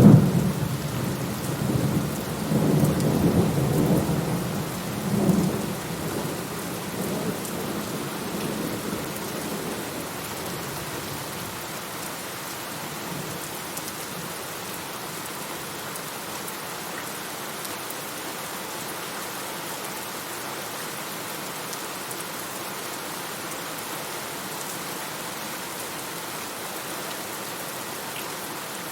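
Steady rain with a sharp thunderclap right at the start, rolling into low rumbling thunder that swells again around three to five seconds in and dies away by about ten seconds in; after that, only the steady rain.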